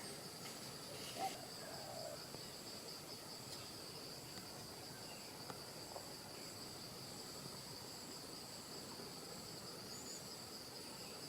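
Faint, steady high-pitched insect chorus, holding two unbroken pitches, with a few faint ticks and a brief louder sound about a second in.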